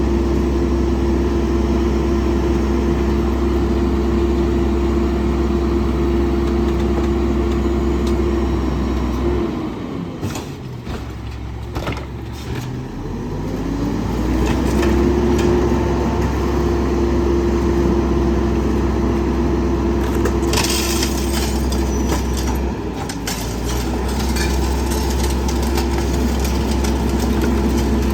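Garbage truck engine and hydraulic pump running under load with a steady whine. The whine sinks away about ten seconds in and climbs back a few seconds later, as in a packer compaction cycle. Scattered cracks and snaps come as bulky trash is crushed.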